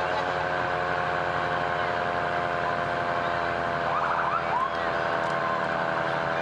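Fire truck running with a steady droning tone, and a short cluster of rising and falling wails about four seconds in.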